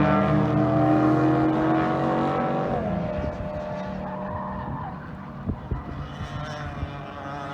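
Mazda Renesis rotary engine of a race car pulling hard under load, its note climbing slowly, then dropping abruptly about three seconds in as the throttle comes off. After that a lower, quieter engine note with a few scattered thumps.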